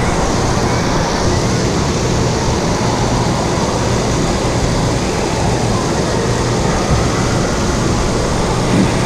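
Steady, loud indoor waterpark din: rushing and splashing water mixed with a distant crowd, over a faint low hum.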